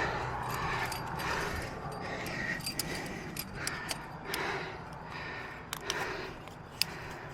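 Metal climbing gear, carabiners and hardware, clinking in scattered short sharp clicks amid rustling and scraping.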